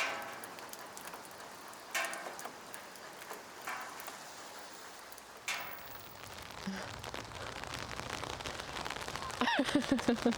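Rain falling, with a few sharper single hits in the first half. From about two-thirds in the rain turns denser and fuller.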